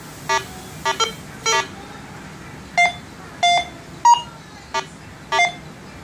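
Minelab Go-Find 60 metal detector beeping its target tones as a bullet is swept over the coil: a run of short electronic beeps at irregular intervals, some lower-pitched and some higher, shifting between tones from one sweep to the next.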